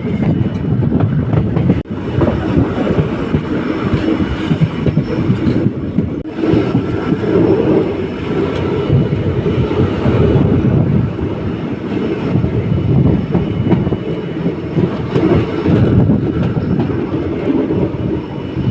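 Diesel passenger train running along the track, a steady rumble of wheels on rail, with a brief break about two seconds in.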